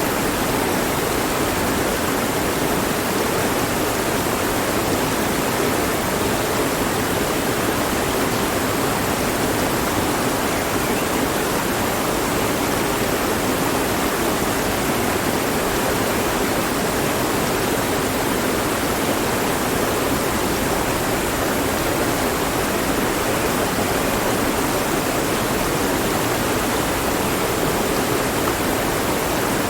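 Mountain stream flowing steadily over rocks, an even rush of water that doesn't change.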